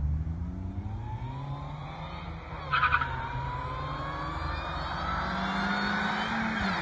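Car engine pulling with its pitch rising slowly, with a brief sharp high-pitched burst about three seconds in and a slight drop near the end.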